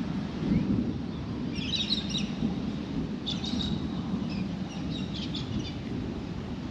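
Birds chirping outdoors in short clusters of high calls, three or four times, over a steady low rumble of wind on the microphone.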